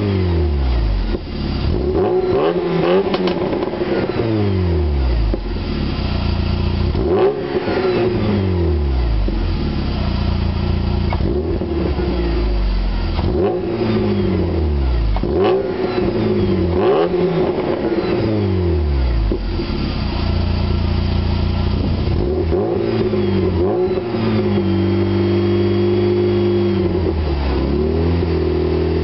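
Exhaust of a 1996 VW Jetta's 2.0L four-cylinder, running catless through a glass pack and a Hooker Aero Chamber muffler, as the engine is revved in short blips about every two seconds, each falling back toward idle. Later it settles into steady running, with a briefly held higher rev near the end. The camera's microphone makes the note slightly raspier than it really is.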